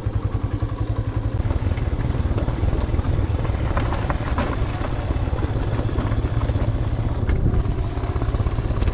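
Single-cylinder motorcycle engine running steadily, its exhaust giving a fast, even pulse.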